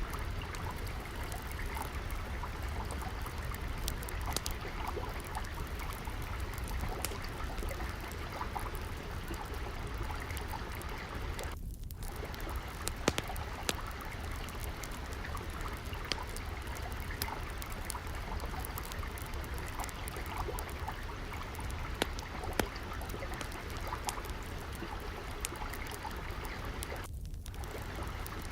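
Water trickling and flowing steadily, mixed with a crackling fire that gives scattered small snaps and a few louder pops.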